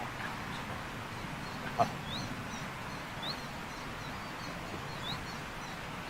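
Small birds chirping: short, high, rising chirps every second or two over a steady outdoor background hum. About two seconds in there is one brief sharp knock, the loudest sound.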